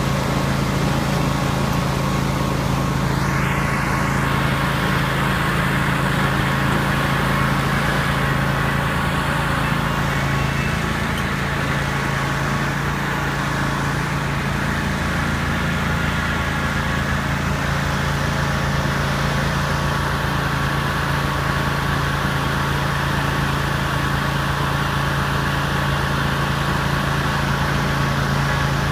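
Riding lawn mower engine running steadily while driving, a constant drone with a steady tone that holds at one pitch throughout.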